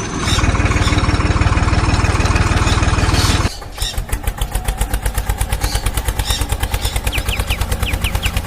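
A tractor engine running just after starting with a fast, even chug. About a third of the way in it drops to a slower, steady idling chug.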